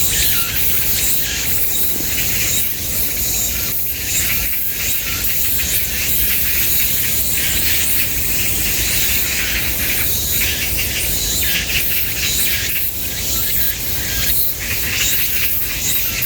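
A dense, steady chorus of insects, high-pitched and continuous, with a low rumble underneath.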